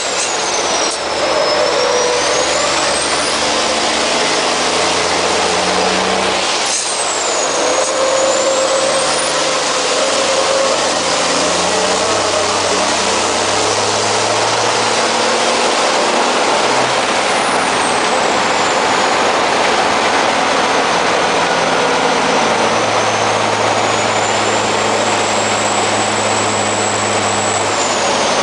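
MAN racing truck's engine heard from inside the cab, running hard under load, with its pitch stepping up and down through gear changes and a high whistle that falls and rises over the top. A short sharp noise cuts through twice in the first seven seconds.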